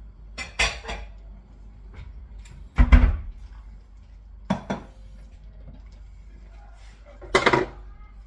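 Kitchen handling noises: four separate knocks and clatters, the loudest a heavy thump about three seconds in.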